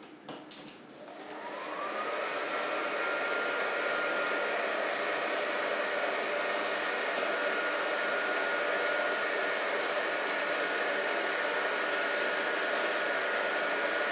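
A few clicks, then an inflatable decoration's built-in blower fan spinning up, its whine rising in pitch over about a second and then settling into a steady whirring hum.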